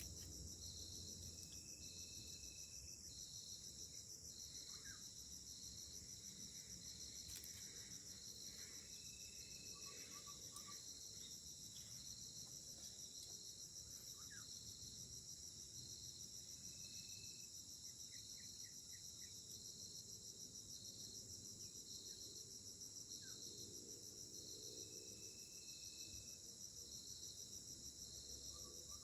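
Faint insect chorus: a steady high-pitched drone with a chirp pulsing about once a second, and a few short bird calls. Underneath is a low, even rumble, the drone of a palm-oil mill's machinery far off.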